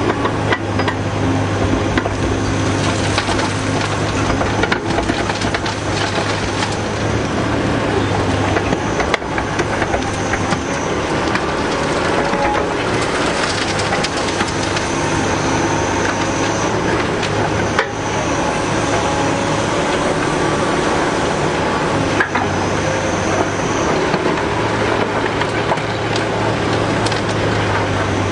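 Caterpillar 245B hydraulic excavator working, its diesel engine running under load, with scattered clanks and knocks from the bucket and the material being loaded. The engine's low steady note eases after the first few seconds and strengthens again near the end.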